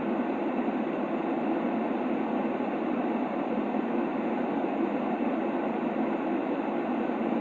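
Steady, even noise for lulling a baby to sleep, an unbroken hush pitched low rather than hissy, with no rhythm or separate sounds.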